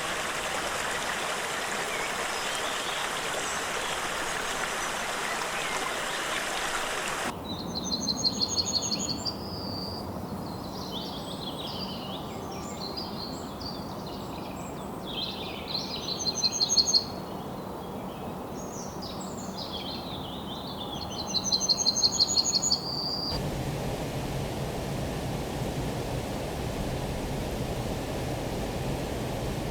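Rainforest birds calling, the loudest a rapid high trill heard three times among other chirps, between two stretches of steady rushing water hiss that cut in and out abruptly.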